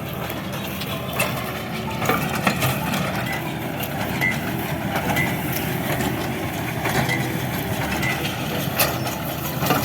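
Farm tractor engine running steadily, with irregular mechanical knocks and clanks over it.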